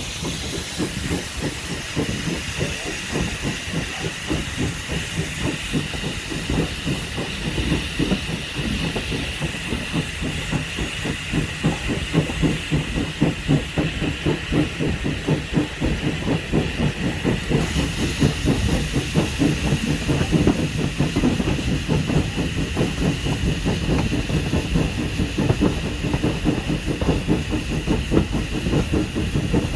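Heritage train running along the line: a steady rumble with fast, continuous rattling from the wheels and track, under a constant hiss, growing slightly louder partway through.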